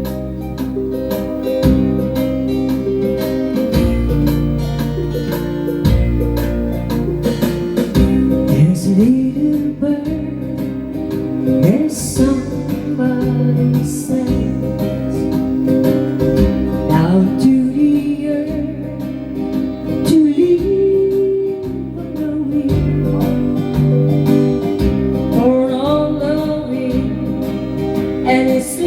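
A woman singing with acoustic guitar accompaniment.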